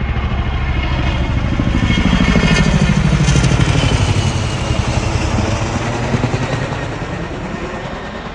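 Chinook tandem-rotor helicopter flying past, its rotor chop pulsing rapidly; it grows louder to a peak a few seconds in, then fades as it moves away.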